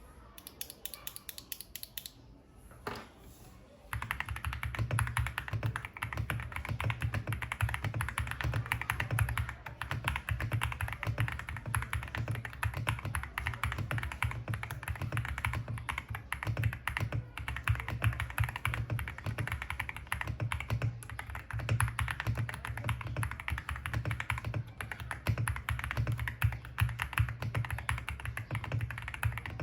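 Lingbao MK75 mechanical keyboard with Lleobog Flower Field switches being typed on, a deep "thocky" keystroke sound. There are a few scattered keystrokes at first, then fast, continuous typing from about four seconds in.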